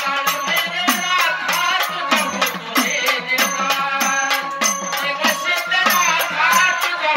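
A woman singing a Marathi devotional song to Kaal Bhairavnath, with rattling percussion keeping a steady beat.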